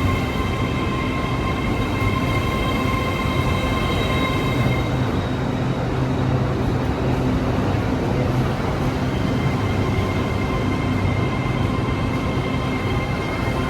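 A train running at close range: a steady low rumble with a high whine that weakens in the middle and comes back near the end.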